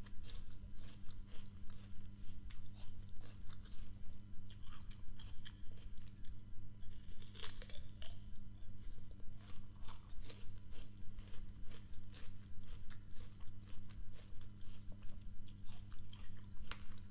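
Close-miked chewing of crisp raw fruit: a steady rhythm of about three chews a second, with louder wet crunches as fresh bites are taken, over a steady low hum.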